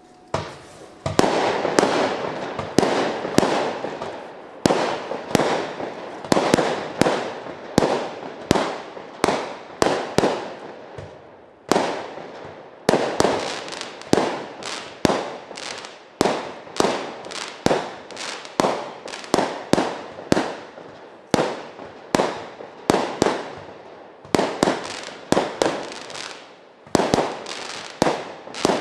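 Multi-shot consumer fireworks battery (cake) firing its shots in quick succession, about one to two sharp bangs a second, each trailing off before the next, beginning about a second in.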